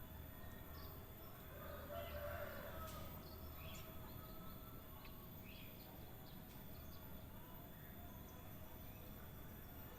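Quiet outdoor background with a few faint, short bird chirps, and a distant rooster crowing briefly about two seconds in.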